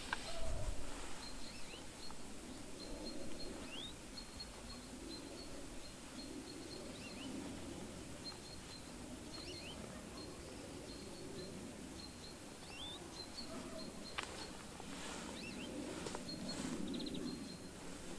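Small birds calling: brief high rising chirps and runs of high ticking notes at one pitch, over a low steady background noise. A few clicks come near the end.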